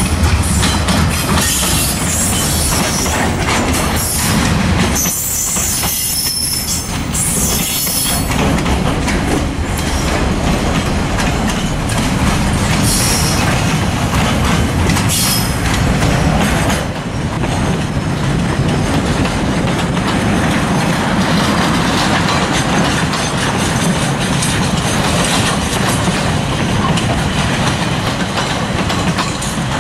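Freight train rolling past on a branch line's light old 70 lb rail, with steady rolling noise and short spells of high wheel squeal, most of them in the first half.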